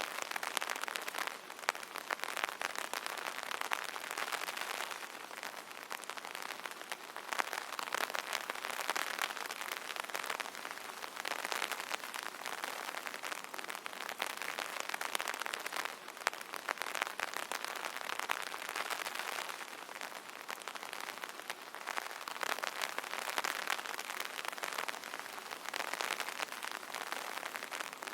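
Steady rain pattering on an umbrella canopy, a dense hiss of many small drop ticks that swells and eases every few seconds.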